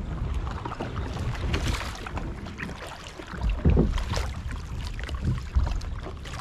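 Kayak paddle strokes dipping and splashing in the river, several in turn, over a low rumble of wind on the microphone.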